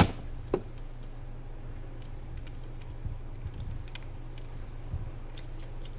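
Small clicks and light taps of an airbrush and its paint cup being handled, two sharper clicks right at the start and faint scattered ticks after, over a steady low hum.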